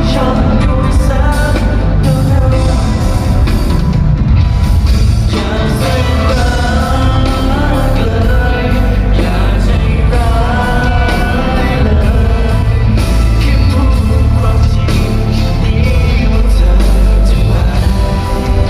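A live pop-rock band playing a song with a lead singer. It is loud and continuous, with a heavy bass.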